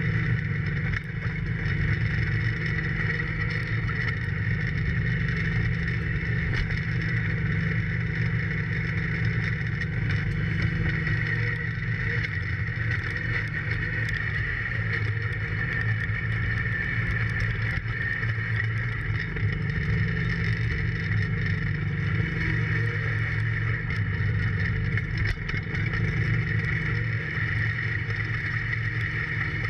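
John Deere 4110 compact tractor's three-cylinder diesel engine running steadily under load, its engine note dipping briefly about halfway through before recovering.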